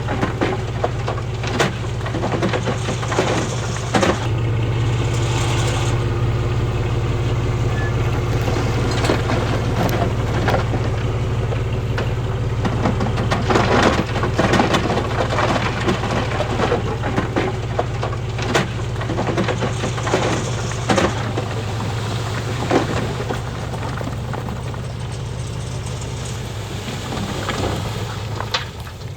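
Heavy diesel earthmoving machinery running steadily, with stones clattering and crunching in irregular knocks and cracks as rock is pushed and spread. The engine eases off a little near the end.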